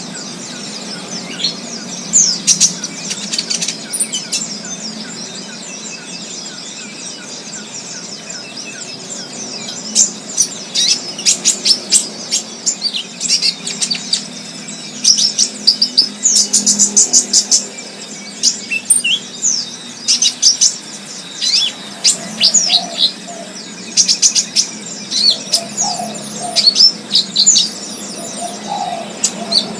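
Wild songbirds chirping: many quick, high, sharp notes coming in clusters, over a steady low background hum.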